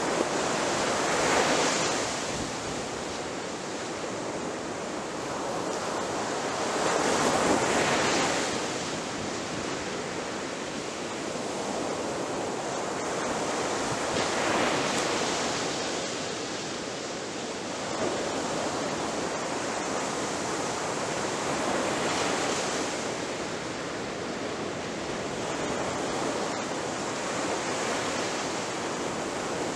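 Ocean surf breaking on a shore: a steady wash of water noise that swells with each breaking wave, four times, about every seven seconds, the first two the loudest.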